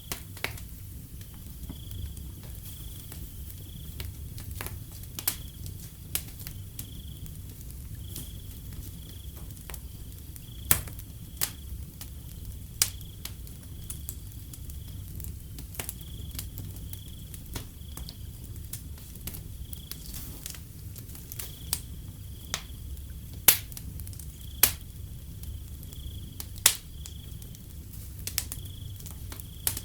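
Wood fire crackling with irregular sharp pops, several louder ones in the second half, over a low rumble of the burning. A cricket chirps in a steady, high-pitched pulsing trill behind it.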